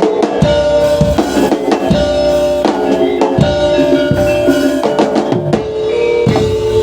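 Instrumental jaranan senterewe gamelan music: drums beating a steady pattern under ringing, sustained metallophone tones.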